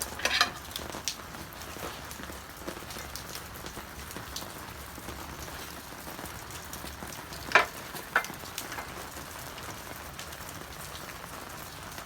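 Onion sizzling in hot cooking oil in a pan, a steady frying hiss, with a few sharp knocks of utensils or cookware near the start and twice about two-thirds of the way in.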